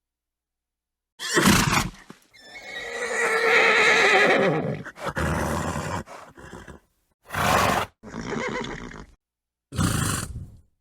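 A horse snorting, then a long whinny with a quavering pitch, followed by more short snorts and blowing.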